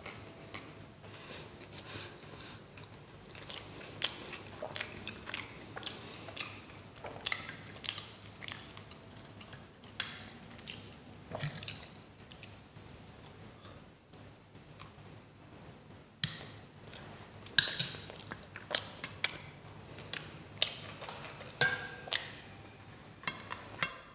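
Close-miked chewing and biting of cauliflower-stuffed paratha with raw onion: wet mouth sounds and many sharp clicks. They come thicker and louder in the second half, with a few loud clinks near the end as steel plates are handled.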